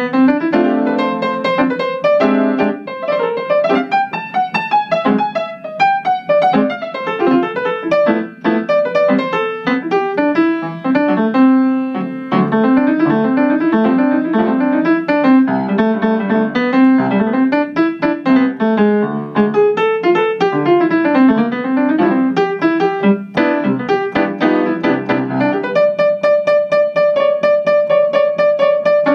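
Piano music: quick runs of notes rising and falling, ending on one note repeated rapidly for the last few seconds.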